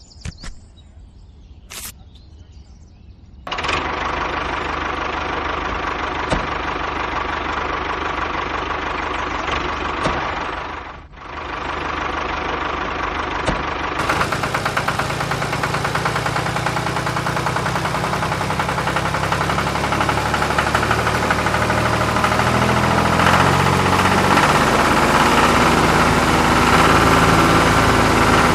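A machine runs steadily with an engine-like sound. It starts abruptly about three and a half seconds in, drops briefly around eleven seconds, and grows slightly louder toward the end.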